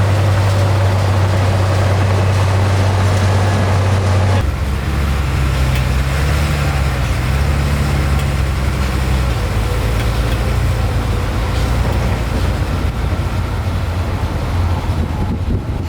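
Heavy diesel machinery engines running. A steady low drone gives way abruptly about four seconds in to a different engine note that rises and falls.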